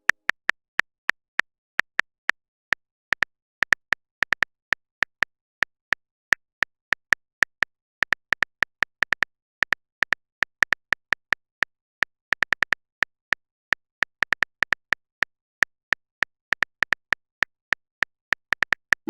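Smartphone keyboard typing sound effect: short, sharp clicks at an uneven pace, a few a second, with silence between them.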